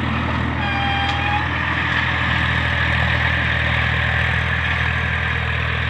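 Massey Ferguson 1035 DI tractor's three-cylinder diesel engine running steadily. A brief high tone sounds about half a second in.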